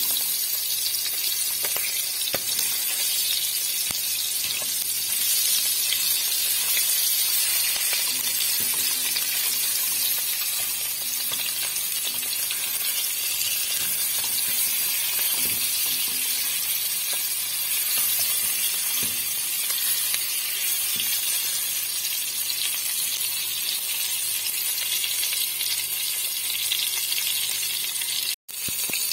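Quail sizzling steadily as they fry in hot oil in a pressure cooker pot, with occasional light scrapes and knocks of a wooden spoon turning the birds. The sizzle breaks off for an instant near the end.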